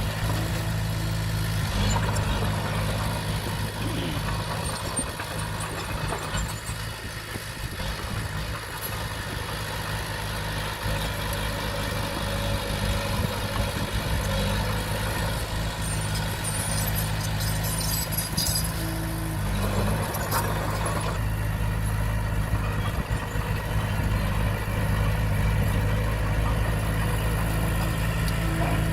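Diesel engine of a Komatsu D20P bulldozer running steadily, its pitch shifting slightly a few times.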